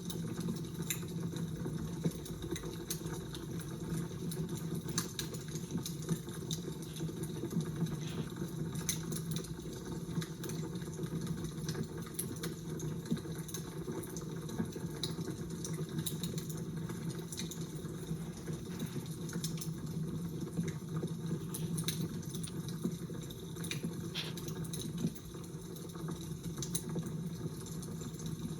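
Crackling fire: a steady low rush with frequent small pops and snaps scattered throughout.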